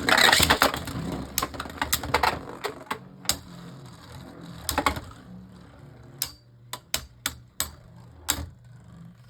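Two Beyblade Burst spinning tops, Harmony Pegasus and Galaxy Zootron, spinning and clashing in a plastic stadium. A dense rattling clatter at first gives way to separate sharp clicks of collisions that come further apart.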